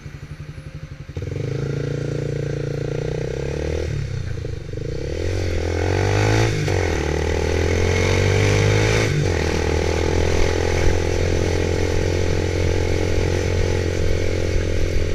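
Motorcycle engine running, getting suddenly louder about a second in, changing pitch several times through the middle as it accelerates, then holding a steady pitch from about nine seconds on.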